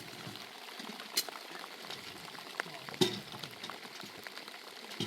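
Food sizzling and crackling as it fries in a pan, with scattered sharp clicks; the loudest click comes about three seconds in.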